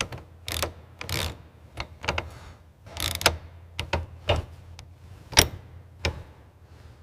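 An uneven series of sharp metal clicks and knocks from hand tools working on the fittings: about a dozen strokes with short gaps between them. The loudest comes about five and a half seconds in, over a faint low hum.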